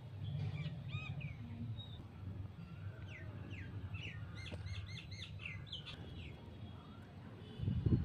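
Birds chirping and calling outdoors, short high notes with a quick run of repeated chirps in the middle, over a steady low rumble that gets louder near the end.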